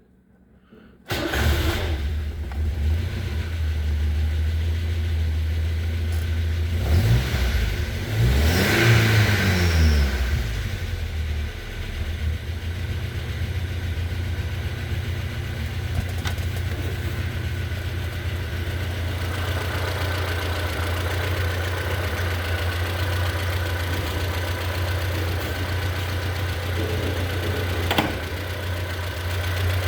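Peugeot 404 Pininfarina's four-cylinder petrol engine starting about a second in, then briefly revved twice and settling to a steady idle. A single click comes near the end.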